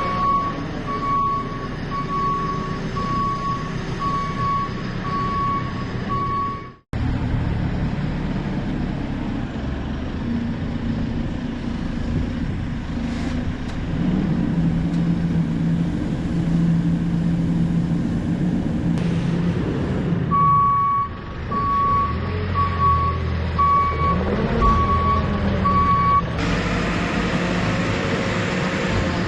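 Diesel machine running with its reversing alarm beeping, about one and a half beeps a second. The beeping stops abruptly about seven seconds in, leaving the engine running alone with a steady hum in the middle. The beeping returns for several seconds before another abrupt change near the end.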